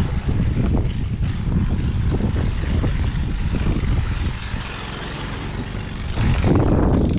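Blizzard wind buffeting the camera microphone: a steady low rumble that gets louder about six seconds in.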